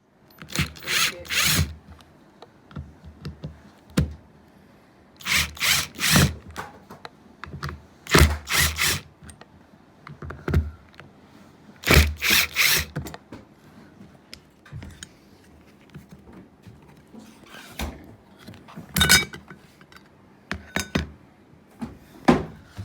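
Hand work on the parts of a front-door latch: short, sharp clicking or scraping strokes in quick clusters of three or four, spaced a few seconds apart, with single clicks in between.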